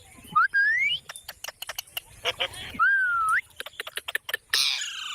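Pet green parrot whistling and clicking: a rising whistle near the start, a run of quick sharp clicks, a second whistle that dips then rises about three seconds in, more clicks, then a short harsh squawk near the end.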